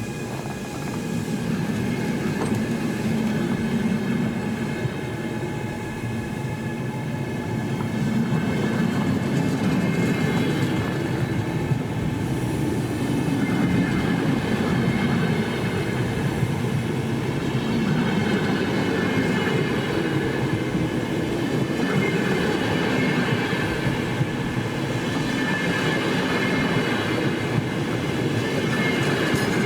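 Train rolling along the rails with continuous running noise and high, steady wheel squeal.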